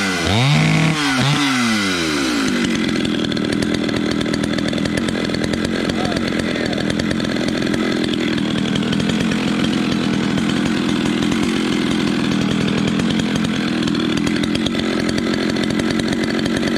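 Echo Kioritz 650 EVL 65cc two-stroke chainsaw revved up and down twice, then running steadily and smoothly.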